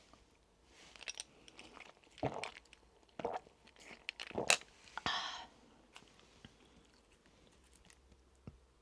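Crunchy food being bitten and chewed: a handful of irregular crunches over a few seconds, then it goes quieter.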